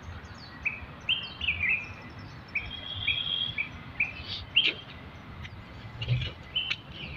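Small birds chirping, many short high notes scattered throughout, with one longer whistled note about three seconds in.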